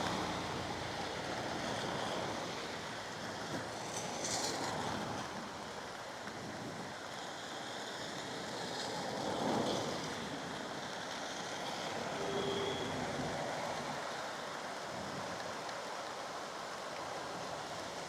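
Steady hiss of heavy rain, with traffic passing on the wet road and a swell as a vehicle goes by about nine seconds in.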